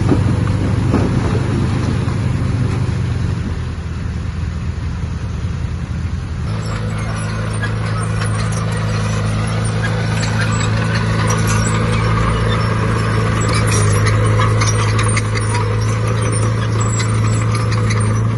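Heavy diesel earthmoving machine running steadily; about six seconds in its engine note steps up and grows stronger, as under load, and from then on metal clanking and rattling rides over it.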